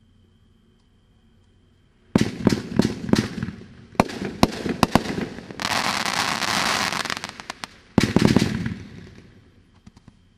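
Brothers Fireworks "Curtain Call" consumer firework going off. About two seconds in, a rapid string of sharp bangs begins. Midway comes a dense crackling hiss lasting about two seconds, then another quick volley of bangs that dies away near the end.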